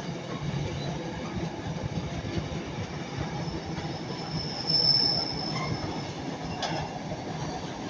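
Container freight wagons rolling past with a steady rumble. A thin, high-pitched wheel squeal rises from about three seconds in, is loudest around five seconds, and fades by six seconds. A single sharp click follows shortly after.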